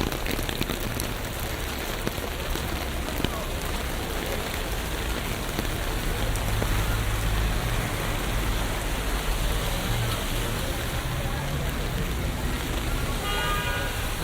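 Steady rain falling on city streets, a dense even hiss, with a low rumble of traffic that swells through the middle and fades again.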